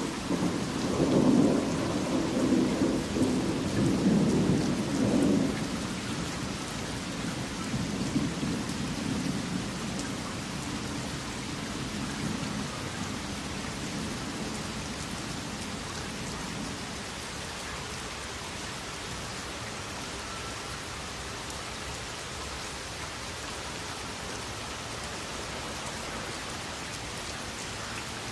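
Steady rain falling, with a roll of thunder rumbling loudest over the first few seconds and dying away about halfway through.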